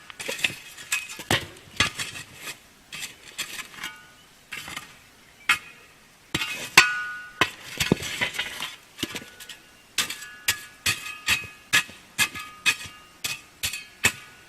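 Irregular, repeated sharp metallic clinks, each with a short ring, of a metal tool knocking and scraping against a cast-iron camp oven as ashes are heaped around its edges.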